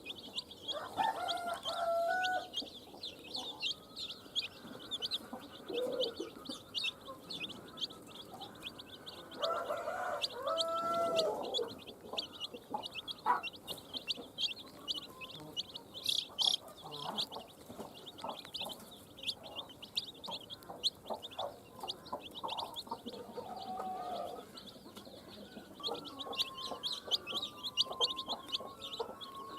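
A brood of baby chicks peeping without a break in quick high chirps, with a hen's lower clucking calls coming in now and then, about a second in, around ten seconds in, and near the end.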